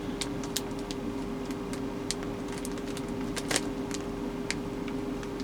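Faint crinkles and small clicks of a plastic Ziploc bag being squeezed to push the air out, over a steady mechanical hum with one fixed tone.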